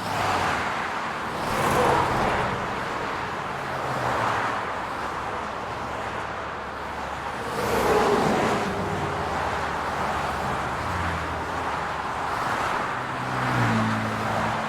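City road traffic: cars driving past one after another over a steady hum of engines and tyres, with several passes swelling louder and fading.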